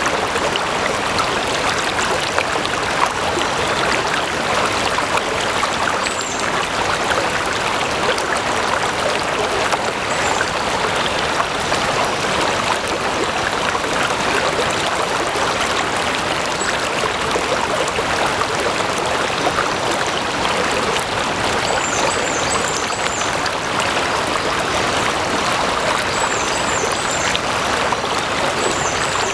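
Stream water flowing over stones in a steady, even rush. A few brief high chirps come in quick runs of three or four, mostly in the second half.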